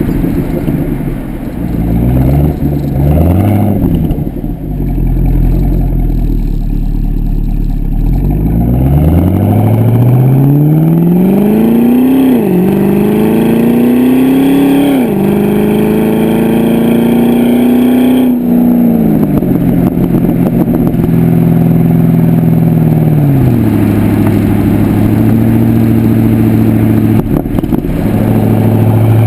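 Pontiac G8 GXP's LS3 V8 through a Corsa exhaust, heard from the rear of the car. Low and uneven at first, then the engine pulls hard with its pitch rising and dropping sharply twice as it shifts up, runs steady, and settles to a lower steady drone near the end.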